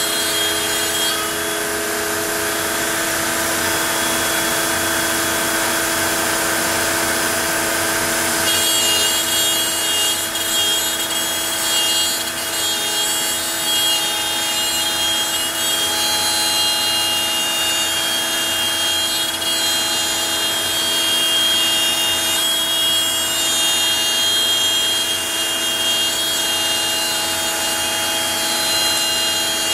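CNC router spindle running steadily while the bit cuts, a continuous whine over a steady hum. About eight seconds in, a higher-pitched whine joins and carries on.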